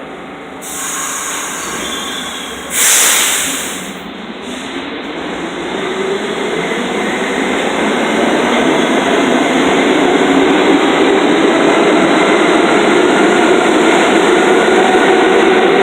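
New York City subway train running through the station, its rumble and hum growing steadily louder, with a brief loud hiss about three seconds in.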